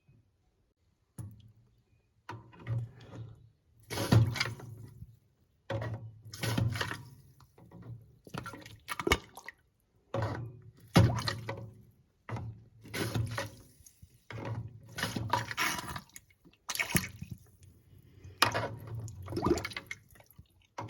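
Miniature model toilet flushing over and over: water gurgles and splashes in short irregular bursts, about one every second or two, as it tries and fails to clear strawberry jam from the bowl.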